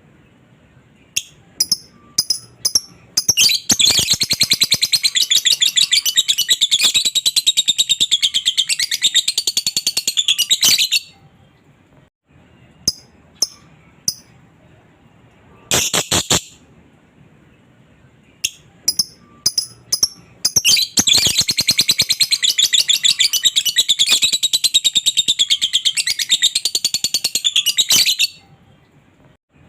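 Lovebird ngekek: two long, rapid, high chattering trills of several seconds each, with short sharp chirps before and between them.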